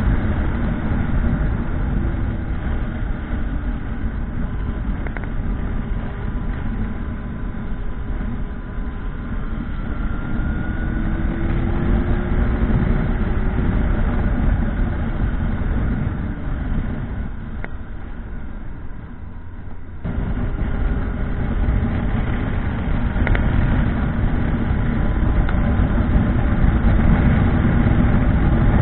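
Motorcycle engine running on the move under a steady rush of wind noise, its pitch rising and falling with the throttle. The sound eases off for a couple of seconds about two-thirds of the way through, then comes back abruptly.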